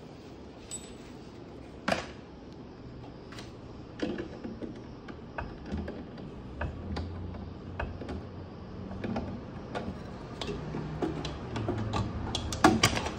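Tools and metal parts being handled while a fridge compressor is fastened in place: scattered clicks and light knocks, a sharper knock about two seconds in and a quick run of clicks near the end.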